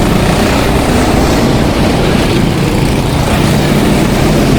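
Several go-kart engines running together as the karts race on a wet track, a steady loud drone over a constant hiss.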